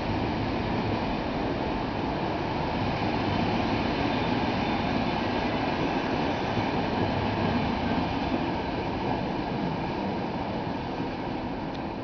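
Passenger train running along the rails as it departs, a steady rumble of wheels and running gear that swells and then slowly fades as it draws away.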